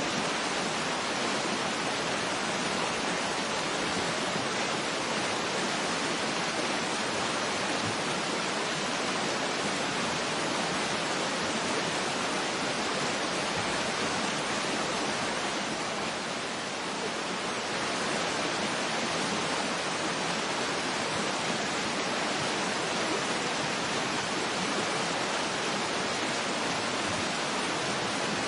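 Steady, unbroken rush of a waterfall, an even hiss of falling water.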